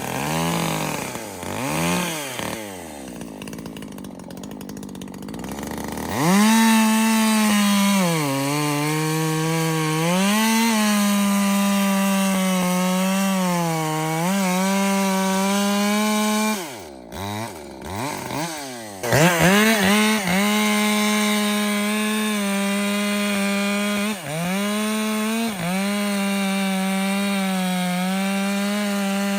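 Ported Echo CS-620PW 60cc two-stroke chainsaw with a muffler mod, revved a few times and then held at full throttle cutting rounds off a log. Its pitch sags each time the chain bites and climbs again as it clears. About two-thirds of the way through it drops back briefly, then goes wide open and cuts again.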